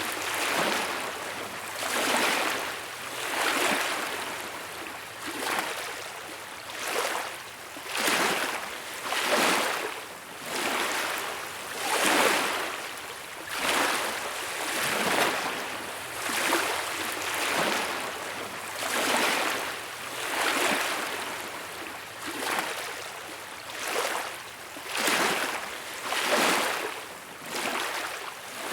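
Small waves washing onto a beach, a rushing hiss that swells and fades in quick, even surges about once every second and a half.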